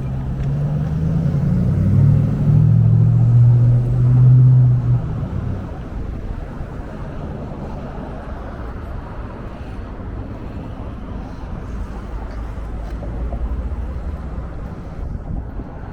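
A motor vehicle running: a low engine hum that shifts in pitch for the first five seconds or so, then settles into a steady rumble.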